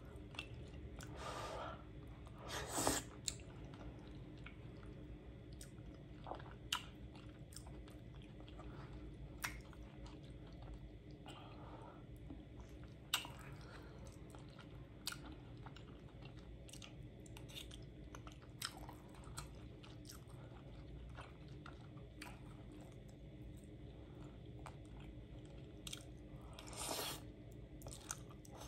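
Close-up chewing and mouth sounds of someone eating cheesy baked spaghetti squash, with scattered short clicks and scrapes of a metal spoon against the squash shell. Near the end there is a longer slurp as strands of squash are sucked in.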